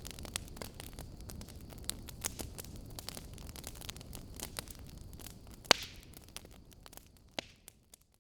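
Fire crackling: irregular sharp pops and snaps over a low rumbling hiss, with one loud pop about six seconds in. It fades out near the end.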